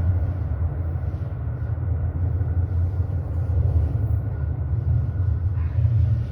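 Low, steady rumble of a departing subway train as it runs away into the tunnel.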